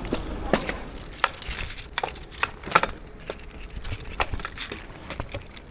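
Irregular sharp metallic clinks and jangles, a dozen or so spread over a few seconds, over a low steady rumble.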